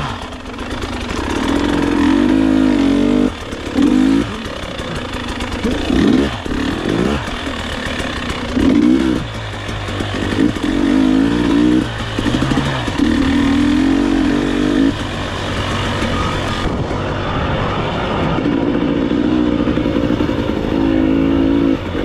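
Enduro motorcycle engine revving in repeated bursts as the throttle is opened and closed, the pitch climbing and dropping every second or two between stretches of lower running.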